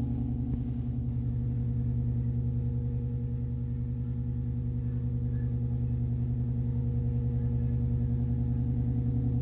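A sustained low drone made of several steady tones stacked together, with a fast fine pulsing running through it.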